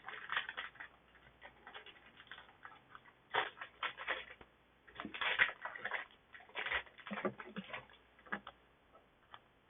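Trading card booster pack being opened by hand: the wrapper crinkles and tears and the cards rustle, in irregular crackly bursts.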